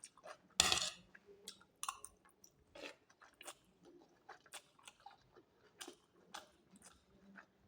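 A person chewing and biting food close to the microphone, with a louder crunchy bite about half a second in, then a run of short, irregular chewing smacks.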